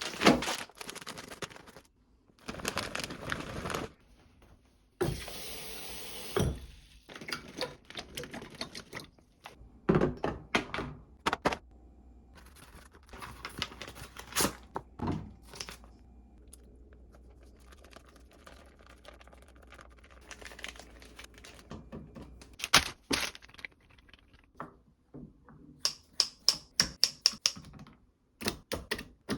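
Food-preparation handling sounds: rice-cake and sauce packaging crinkled and torn, and dishes and containers set down with sharp knocks and thunks. A low steady hum runs through the middle, and a quick run of clicks comes near the end.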